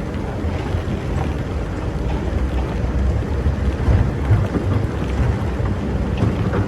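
Excavator's diesel engine running steadily with a low, even rumble, with a few faint clicks over it.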